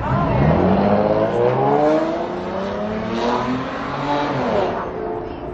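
A motor vehicle's engine accelerating, its pitch climbing in two long pulls before it fades near the end.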